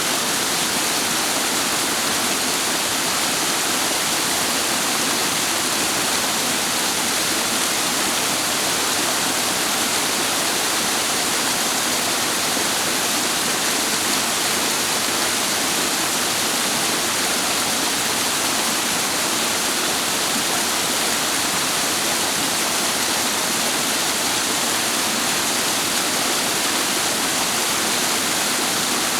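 Rushing water of a clear mountain stream at a waterfall: a steady, unbroken wash that does not change.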